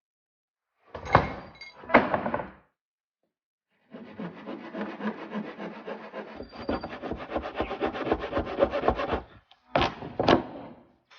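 Hand work on a wooden board: two sharp knocks, then several seconds of fast rasping strokes on the wood, then two more knocks near the end.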